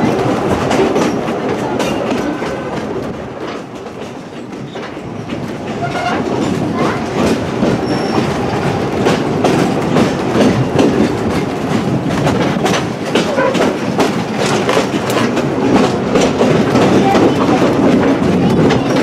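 Two-foot narrow-gauge passenger coach rolling along the track, heard from aboard an open-sided car: a steady wheel-on-rail rumble with frequent clicks over the rail joints. The rumble dips a few seconds in, then builds again.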